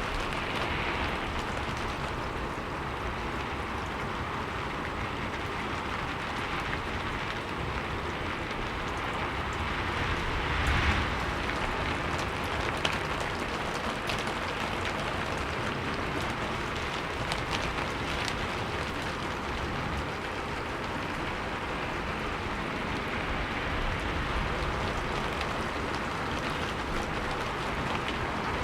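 Steady rainfall, with the hiss of rain and scattered individual drops ticking on a surface. It swells slightly about eleven seconds in.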